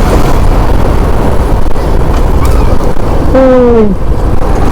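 Motorcycle ride at speed: heavy wind buffeting on the microphone over the engine and road noise. About three-quarters in, a horn sounds once for under a second, its pitch falling.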